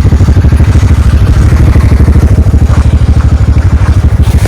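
Motor scooter's small single-cylinder engine running steadily under way, loud and close, with a fast, even throbbing pulse.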